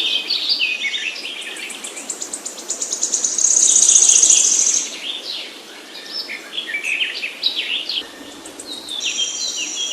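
Several small birds chirping and singing in quick, high notes, with a fast, high trill about halfway through.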